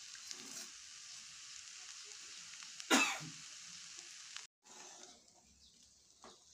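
Tempered rice sizzling in hot oil in a steel kadai on a gas stove as a spatula stirs it: a steady frying hiss, with one sudden loud sharp sound about three seconds in. The hiss cuts off abruptly past the middle and the rest is much quieter.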